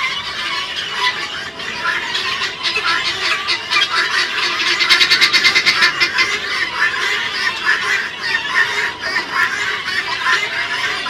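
A flock of helmeted guineafowl calling together, with harsh, overlapping squawking cries. About five seconds in there is a fast, evenly spaced run of chattering notes.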